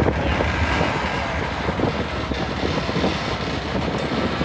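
Freight train rolling past: a steady noise of wheels on rail, with many short clicks.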